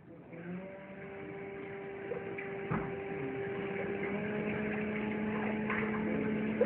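A steady machine hum made of several held tones, growing gradually louder, with a single soft knock about three seconds in.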